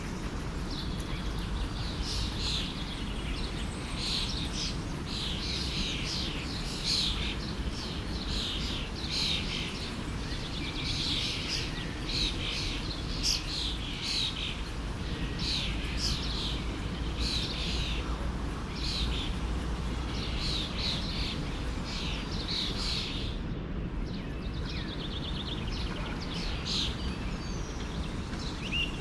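Small birds chirping in a quick, steady series of short calls over the steady rush of a forest stream.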